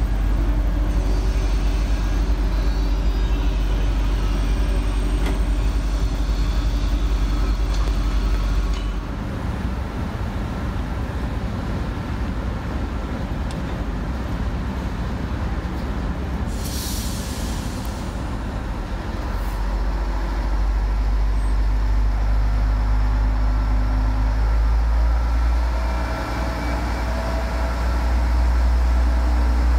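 A train in the station running with a steady low rumble, with a short hiss of compressed air released about halfway through, typical of train brakes.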